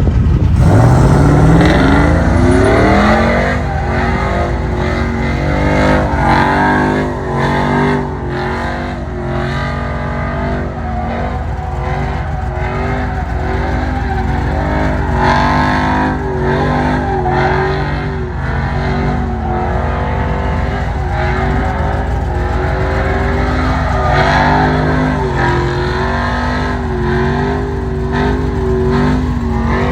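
Pickup truck engine revved hard in a burnout pit, climbing sharply over the first few seconds and then held at high revs, rising and dipping, over the noise of spinning tyres.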